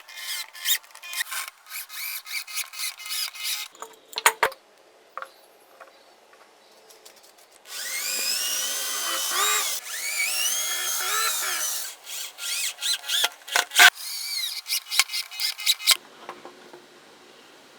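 Electric drill run in short stop-start bursts. After a pause of a few seconds it runs for about four seconds, its pitch rising and falling as it speeds up and slows under load. Then come more short bursts.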